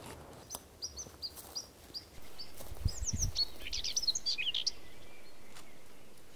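Small birds chirping outdoors. Short high chirps come spaced through the first half, then a quicker run of twittering in the middle, with a couple of brief low thuds about three seconds in.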